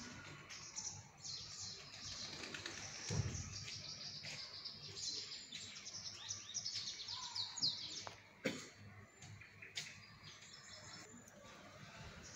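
Small birds chirping and twittering, many quick high calls overlapping, busiest over the first two-thirds. A few sharp clicks come later.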